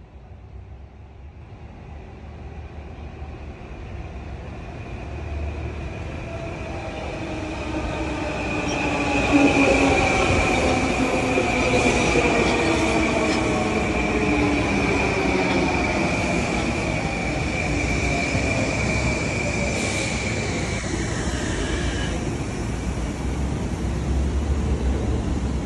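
Long Island Rail Road train approaching and slowing. The noise builds over the first several seconds. Then a set of whining tones falls steadily in pitch under a high, steady wheel squeal, which drops lower and fades a few seconds before the end.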